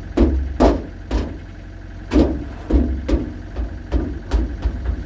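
Hammer blows on the sheet metal of a 1950 GMC pickup's cab while a dent is pulled out: about ten sharp knocks at an uneven pace, over a steady low engine hum.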